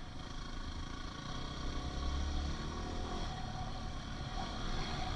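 Dirt bike engine running, with its pitch rising and falling about two seconds in as the throttle is worked.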